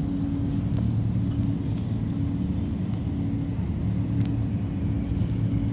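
Steady low engine drone of a motor vehicle running, with a low hum that swells and fades every second or two.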